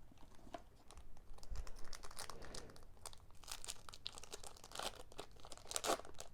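Foil wrapper of a Pokémon booster pack being torn open and crinkled, a run of quick papery crackles.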